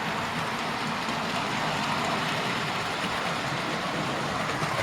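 Model railway B17 locomotive and its train running slowly along the layout track, a steady rolling noise of wheels on rail.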